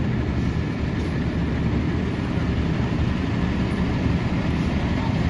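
Seagrave Marauder II fire engine's diesel engine running steadily with a deep, even rumble.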